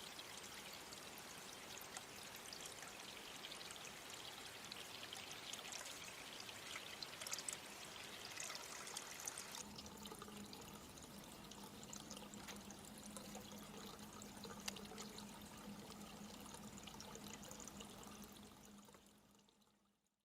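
Faint, steady noise of pouring, trickling water. About halfway through, a low steady hum comes in and the higher hiss thins out. Near the end everything fades out.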